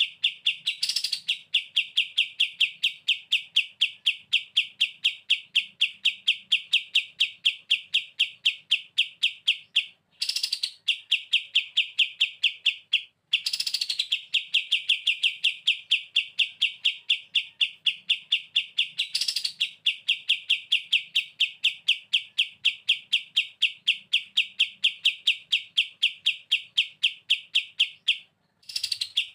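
Kapas tembak bird singing its 'bren' trill: a long rapid run of sharp chirps, about four to five a second, broken by three short pauses, with a higher upswept note now and then.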